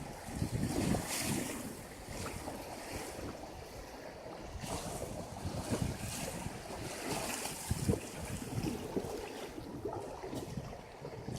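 River water rushing and splashing around a raft in turbulent flow, surging and easing, with wind buffeting the microphone.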